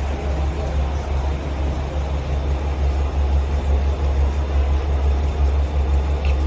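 Diesel railcar engine idling with a steady low hum.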